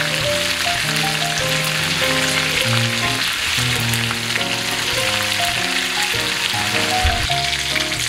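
Beef meatballs frying in a skillet, a steady sizzle, with background music playing a stepping melody over it.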